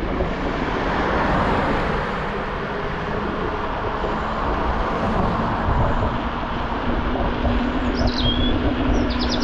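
Steady wind and road noise on a bicycle-mounted camera while riding, with a steady low hum coming in about halfway. A bird chirps a few times near the end.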